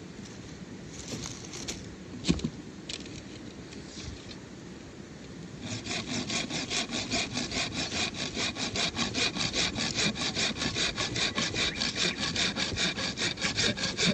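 Hand saw cutting wood. A few light knocks come first, one sharper about two seconds in. Then, about six seconds in, the sawing starts in quick, even strokes, about four a second.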